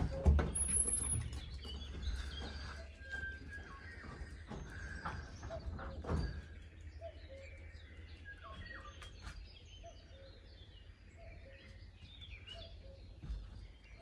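Small birds chirping and singing, many short scattered calls overlapping. A couple of knocks stand out, the loudest right at the start and another about six seconds in.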